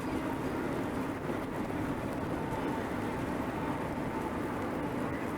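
Steady road noise of a moving bicycle: tyres rolling on pavement and wind, with a faint steady hum throughout.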